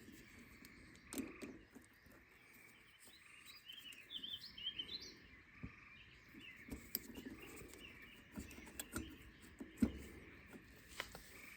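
Birds chirping, with scattered light clicks and knocks, the loudest knock about ten seconds in.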